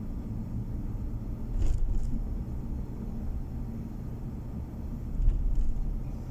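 Steady low rumble of a car's engine and tyres on the road, heard from inside the cabin while driving. It swells louder twice, about a second and a half in and again about five seconds in.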